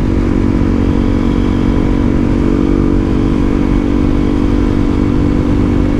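Honda CRF300L single-cylinder engine running through an aftermarket exhaust at a steady cruise, holding an even engine note with no revving.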